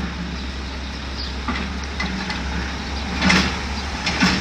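Heavy demolition machine's diesel engine running steadily, with three sharp knocks of debris or the machine's bucket, the louder two near the end.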